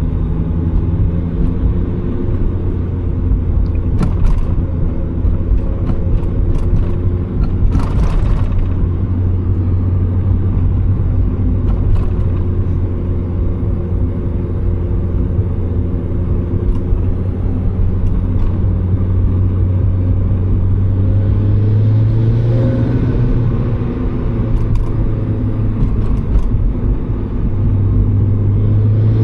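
Turbocharged Mazda Miata's four-cylinder engine droning steadily at cruising revs with road noise, its pitch rising a little about two thirds of the way through and again near the end. A few brief clicks sound here and there.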